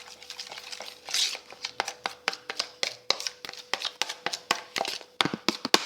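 Quick, irregular clicks and knocks of kitchen work in a bowl as chicken is worked into a spice-and-oil marinade. They come sparse at first and grow faster and louder in the second half.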